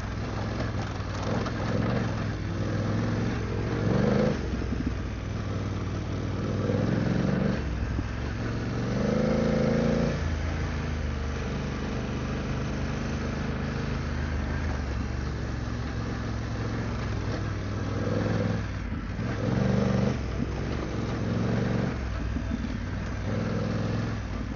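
BMW F900GS adventure motorcycle's parallel-twin engine running on a dirt trail, revs rising and falling as the throttle is worked. It pulls harder in several short surges, the longest about 9 to 10 seconds in.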